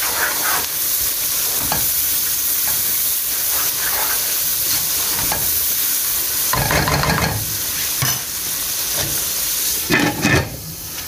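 Chopped onions, tomatoes and chillies sizzling steadily in butter and oil in a non-stick wok while a wooden spoon stirs and scrapes them. Near the end a glass lid is set on the pan with a clatter, and the sizzle turns quieter.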